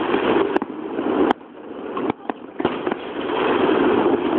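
Fireworks shells bursting overhead: four sharp bangs about half a second to a second apart, over a continuous rushing, crackling noise.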